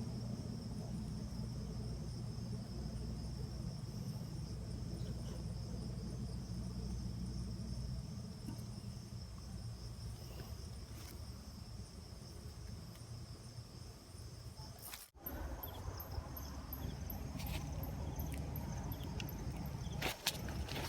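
Steady chorus of insects, crickets or the like, as one even high-pitched drone, over a low rumble of background noise. The sound drops out briefly about three-quarters of the way through, then continues.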